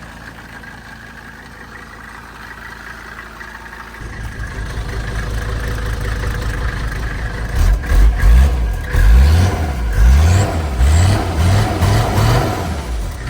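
Mercedes-Benz OM617 inline five-cylinder diesel idling, louder from about four seconds in, then revved in a series of quick blips in the second half.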